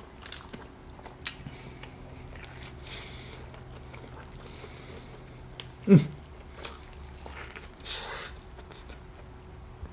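Close-miked biting and chewing of a soft burger, with small wet mouth clicks. About six seconds in there is a short, louder voiced hum that drops in pitch.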